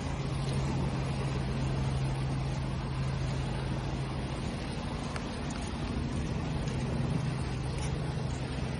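Steady wash of ocean waves with a low hum underneath.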